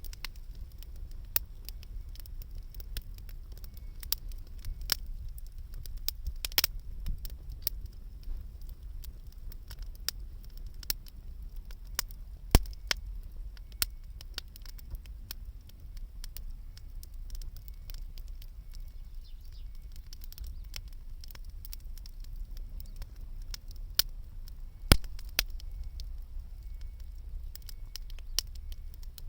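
Wood fire crackling, with irregular sharp pops and two louder snaps, about twelve seconds in and near the end, over a steady low rumble.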